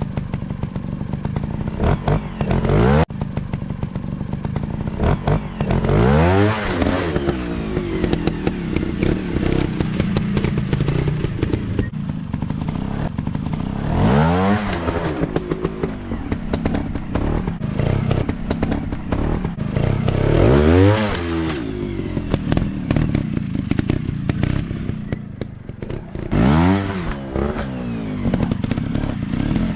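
Dirt bike engine running and being revved hard several times, its pitch climbing and falling with each burst of throttle, with rattles and knocks from riding over rough ground.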